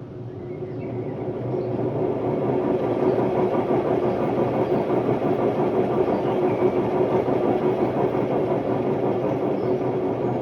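Hotpoint Ultima WMD960 washing machine on its spin cycle: a loud rumble with a steady droning tone, growing louder over the first couple of seconds as the drum speeds up, then holding. The noise is the sign of worn drum bearings.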